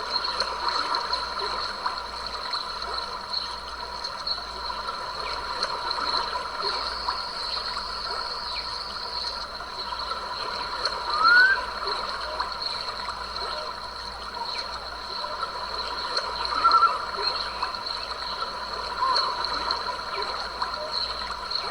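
Stream flowing over rocks with a steady chorus of insects, and a few short bird calls, one a quick rising chirp about halfway through.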